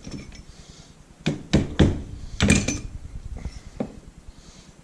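Several sharp knocks and clunks from handling LS engine parts during teardown, in a quick cluster with the loudest about two and a half seconds in and one more lighter knock a second later.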